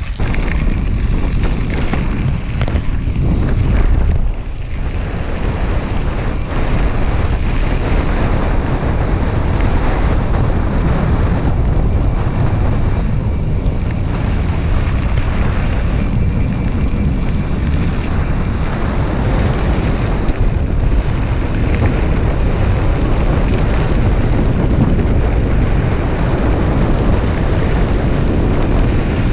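Heavy wind noise on the microphone of a camera carried while riding a bicycle: a steady rushing rumble with no clear breaks.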